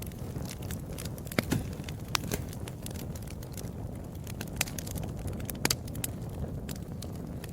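Wood fire crackling: irregular sharp pops and snaps, a few louder than the rest, over a steady low rumble of the burning fire.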